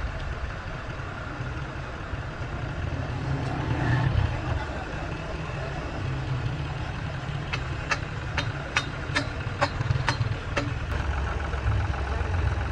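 An engine idling with a steady low rumble. Over the second half come about eight sharp metallic clinks, roughly two a second, like a hammer striking metal.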